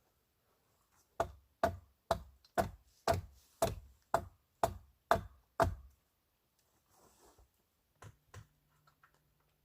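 A run of about ten sharp knocks, evenly spaced at roughly two a second, followed by two fainter knocks near the end.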